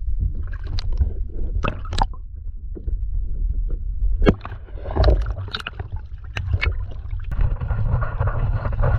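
Scattered sharp knocks and wet gurgling water sounds of a fish being brought aboard and handled on a plastic fishing kayak, over a steady low wind rumble on the microphone. The loudest knock comes about four seconds in.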